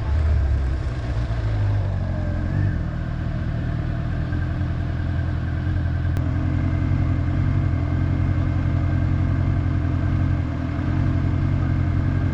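Honda motorcycle engine running steadily on the move, over a steady hiss, with a small shift in engine tone about two and a half seconds in.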